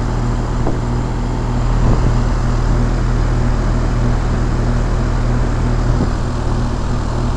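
5-ton Trane XE1000 Weathertron heat pump outdoor unit running in heating mode: the compressor hums steadily under the steady rush of the condenser fan.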